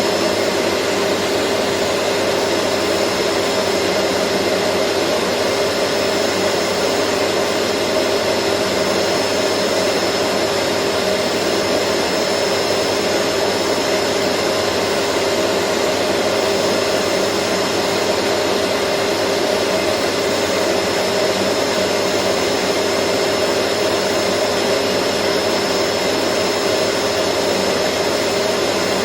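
Vacuum cleaner motor running steadily at a constant speed: a dense even rush of air with a steady hum and a thin high whine.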